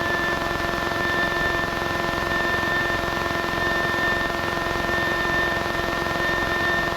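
Single-engine Piper light aircraft's piston engine and propeller running steadily, heard inside the cabin as a constant drone with a steady high whine over it.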